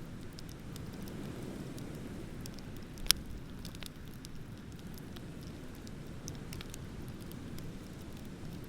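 Beach bonfire crackling with scattered small pops and one sharp, loud pop about three seconds in, over a steady low rush of ocean surf.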